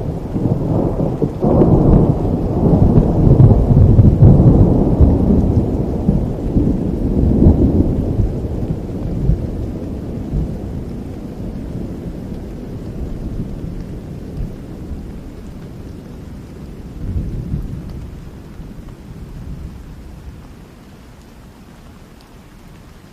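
A long peal of rolling thunder over steady rain: the rumble swells about a second and a half in, is loudest over the next several seconds, then slowly fades away, with a smaller rumble near the end.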